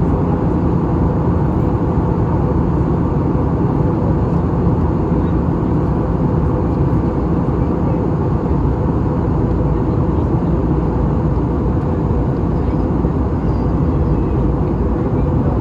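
Steady cabin noise of an Airbus A320 airliner in flight: engine and airflow noise as a loud, even drone with a constant low hum.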